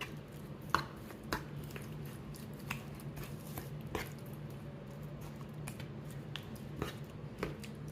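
Kitchen handling noises while raw chicken is being seasoned: irregular light clicks and soft squishy handling, over a steady low hum.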